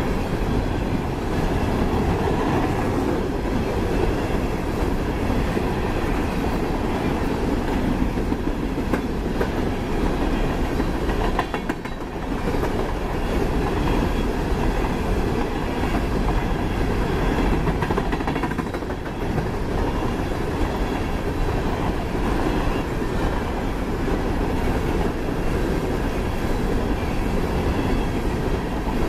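Empty coal cars of a freight train rolling past: a steady, continuous noise of steel wheels running on the rails, dipping briefly about twelve seconds in.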